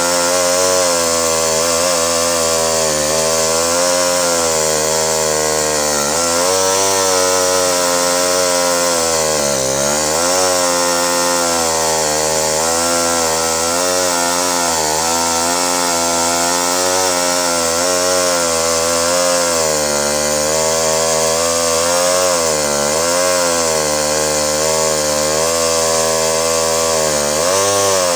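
Vintage Pioneer 1200 58cc two-stroke chainsaw running at high speed, its pitch dipping and recovering several times as it cuts through wood under load.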